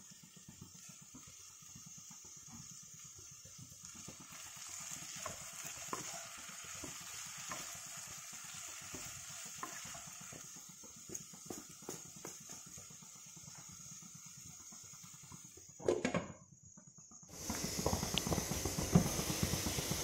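Cauliflower and potato frying gently in a non-stick kadai, stirred with a wooden spatula: a soft sizzle with many small scraping taps. About sixteen seconds in there is a knock, a brief gap, then a louder frying sizzle.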